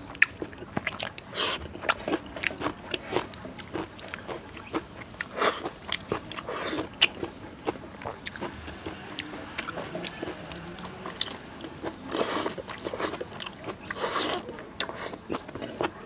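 Close-miked eating of a rice and dal meal: wet chewing and lip-smacking with frequent sharp mouth clicks.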